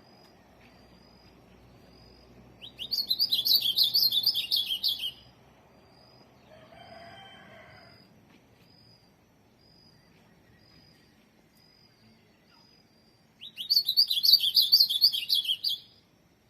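Male ultramarine grosbeak (azulão) singing two rapid warbled song phrases, each about two and a half seconds long, one near the start and one near the end. A fainter, lower drawn-out call sounds between them.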